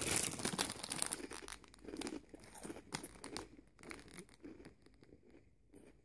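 Walkers Pops popped potato crisps being chewed close to the microphone: a crackly crunching, densest at the start and thinning out over the next few seconds.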